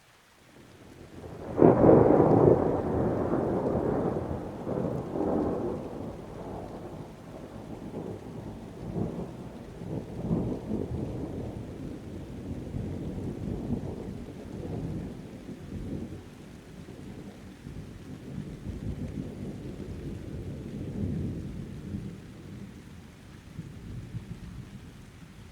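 A thunderclap breaks about a second and a half in, then rolls on as a long rumble that swells and ebbs several times and slowly fades. Rain falls behind it.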